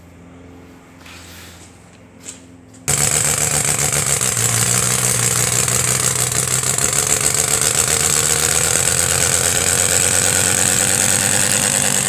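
Homemade radial engine running steadily with a fast, even beat of firing pulses, coming in suddenly about three seconds in after a faint hum.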